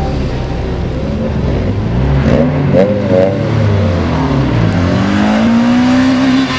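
Opel Corsa A 1.5-litre turbodiesel accelerating hard off a drag-race start line. The engine note climbs, wavers and drops at a gear change two to three seconds in, then rises steadily again.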